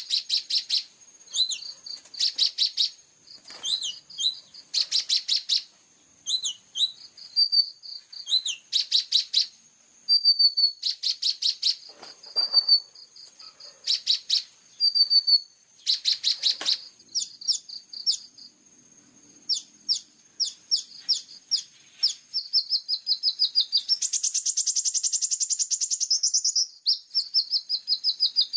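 Kolibri ninja sunbird singing in 'full tembakan' style: short bursts of very fast, high-pitched repeated notes, each burst separated by brief whistled notes that slide up or down. Near the end comes a longer, unbroken rapid trill lasting a few seconds.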